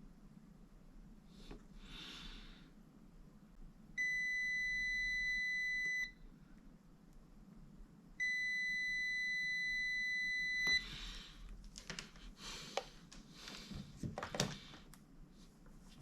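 Multimeter continuity beeper sounding two long steady beeps, each about two seconds, as the probes touch a transistor's leads. The beep signals a short: these transistors are found to be broken down. Light clicks and rustling of probes and parts follow near the end.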